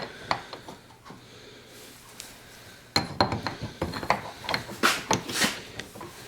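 Metal tools and parts being handled on a workbench: irregular clinks and knocks, sparse at first and then a busy run of them from about three seconds in. A faint low hum stops at that point.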